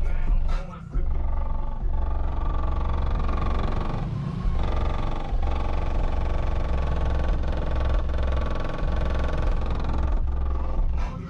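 Heavy hip-hop bass played loud through two Resilient Sounds Gold V2 12-inch subwoofers on a Taramps Big Boss 3k amplifier, the deep bass notes swamping the rest of the song. It drops out briefly about a second in.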